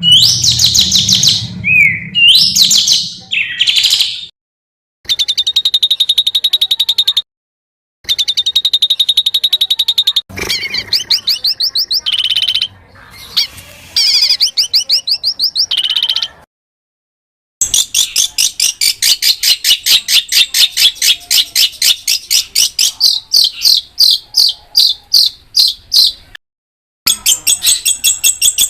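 African songbird singing in fast rolling runs of sharp, high repeated notes, edited into segments that break off abruptly into silence several times.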